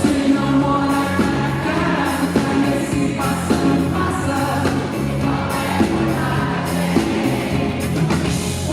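Live pop band music, with a woman singing the melody over steady bass and drums.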